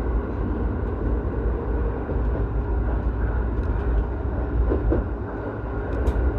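Electric commuter train running, heard from inside the passenger car: a steady low rumble of motors and wheels on the rails, with a few light clicks near the end.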